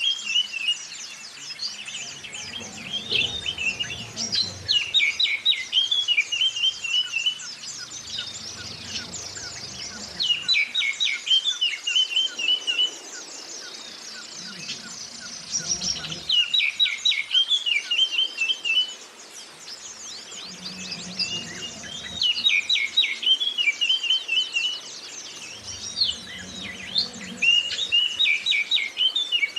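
Oriental magpie-robin song mixed with white-eye (Zosterops) chirping. A loud phrase of quick notes ending in a trill repeats several times, a few seconds apart, over continuous high twittering.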